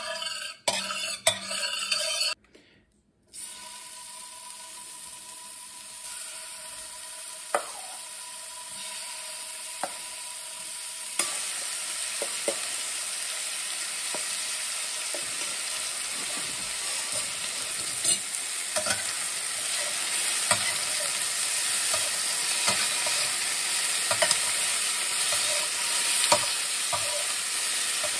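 A metal spatula clinks on a stainless steel skillet, then chicken pieces sizzle steadily in hot oil. The sizzle gets louder about eleven seconds in, with scattered taps and scrapes of the spatula as the chicken is stirred.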